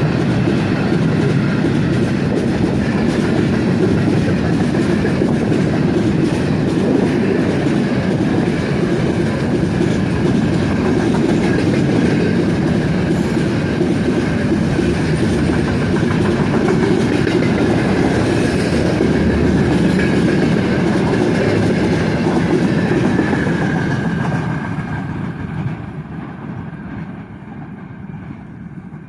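Freight train wagons rolling past close by, wheels clacking over the rail joints, with a thin steady squeal above the rumble. The noise drops away about 24 seconds in as the end of the train goes by.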